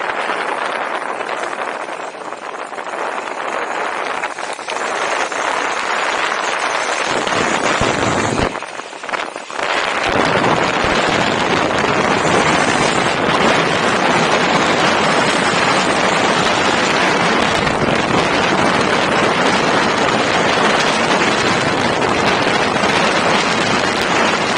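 Wind buffeting the microphone: a loud, steady rushing noise that drops away for about a second around eight and a half seconds in, then comes back louder and fuller.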